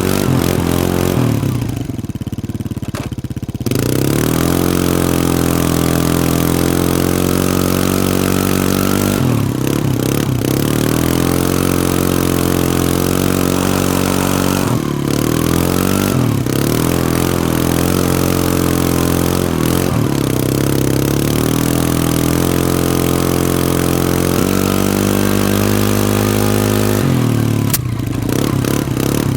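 Small ATV engine running under throttle, its pitch climbing and holding, then dropping as the rider lets off and gets back on the gas several times. A steady hiss runs over the engine throughout.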